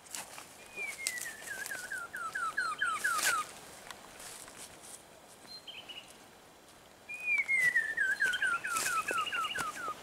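A bird singing a falling series of about ten clear whistled notes, heard twice, with footsteps on the leaf-litter path in between.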